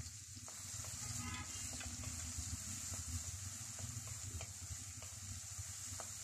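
Crushed onion, garlic and green chillies sizzling gently in hot coconut oil in a metal wok, stirred with a wooden spatula that gives a few light ticks against the pan, over a steady low hum.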